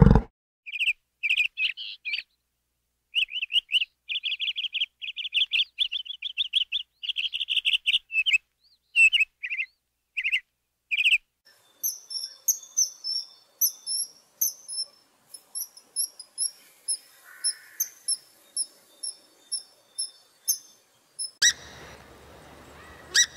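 Small birds chirping: bursts of quick chirps for about the first eleven seconds, then higher, thinner chirps repeated in short runs. Near the end, a faint hiss with a few sharp clicks.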